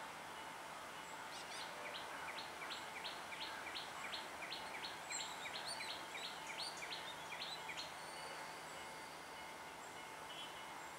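A bird calling a long series of short, sharp, high notes, about three a second, for around six seconds, over faint steady outdoor background noise.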